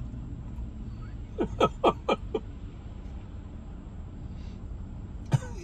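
A man's brief chuckle: a quick run of short laughs about a second and a half in and one more near the end, over a steady low hum.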